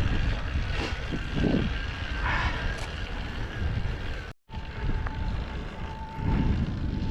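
Wind buffeting the microphone, with the rumble of an e-bike rolling over a dirt trail. The sound drops out briefly about four seconds in, and a faint steady whine runs after it.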